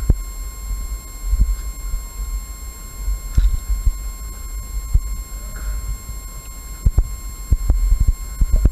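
Steady low rumble with irregular sharp knocks and clicks, over a faint steady high-pitched electronic whine.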